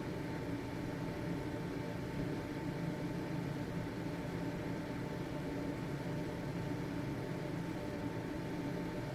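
Household ventilation fan running steadily: an even motor whir with a low hum and a faint high steady tone.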